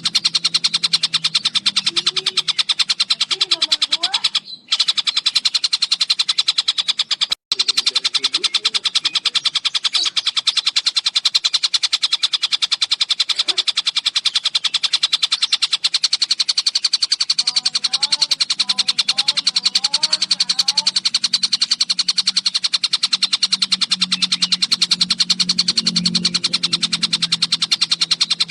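Tengkek Buto bird calling in a long, fast, unbroken trill of rapid high notes, broken by two brief gaps about four and a half and seven and a half seconds in.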